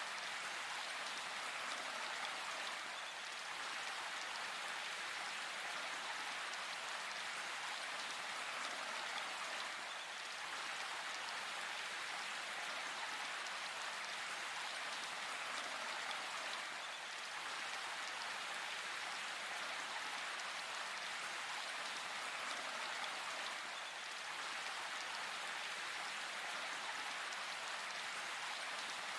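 Steady rain falling in a forest, an even hiss of many drops.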